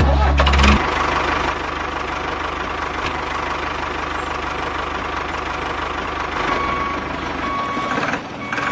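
Engine running steadily with an even low chugging. The sound is heaviest in the first second.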